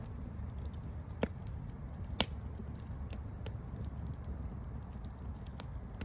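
Campfire burning with a steady low rumble of flames and scattered sharp crackles, two louder pops a second apart near the start.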